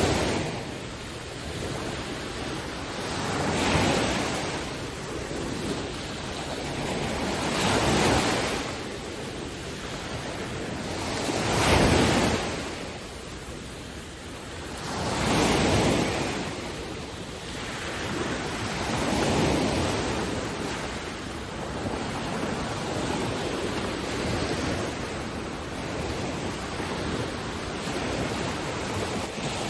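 Ocean surf washing in, rising and falling in swells about every four seconds.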